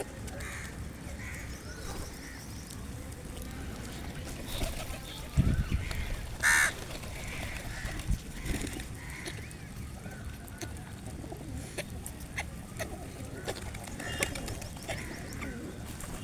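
A flock of birds calling with many short calls, with a low thump about five seconds in and one loud call soon after.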